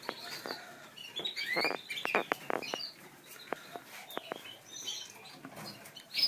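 Canaries in a bird room chirping and calling in short, rapid notes, some sliding in pitch, along with many light clicks and taps.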